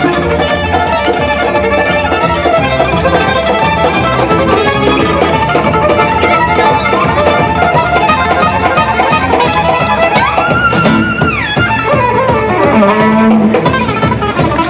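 Fast Romanian gypsy-style instrumental music led by a fiddle over guitar accompaniment, full of rapid runs. About ten seconds in, a high note slides up, wavers and slides back down.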